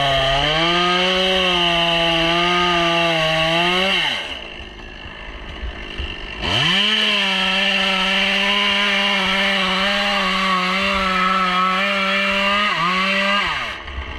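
Stihl chainsaw cutting through white birch at full throttle in two long runs, about four and seven seconds, dropping back near idle between them. The engine note sags and wavers as the chain bites into the wood.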